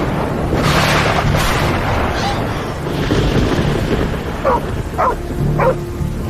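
A dog barks three times in quick succession, short rising barks about half a second apart, over the steady noise of heavy rain.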